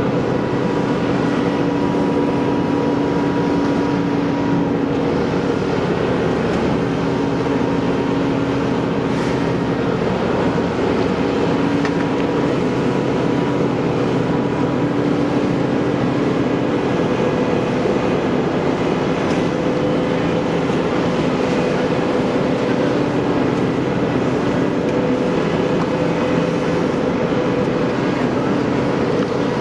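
Vehicle engine idling steadily, a constant drone with a steady hum.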